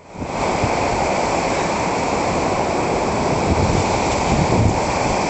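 Ocean surf washing onto the beach in a steady rush of breaking waves, with wind gusting on the microphone. The sound fades in at the very start.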